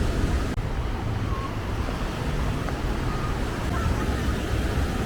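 Beach ambience: a steady rush of surf with wind rumbling on the microphone and faint distant voices.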